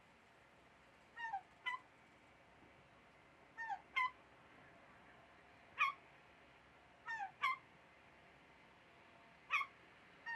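A bird calling repeatedly: short, clear, downward-slurred calls, mostly in pairs, roughly every two seconds.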